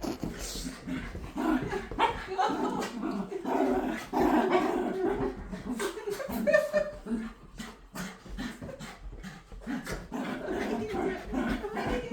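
Dog making excited greeting noises: a continuous run of wavering cries and grumbles that rise and fall in pitch, with quick clicks scattered throughout.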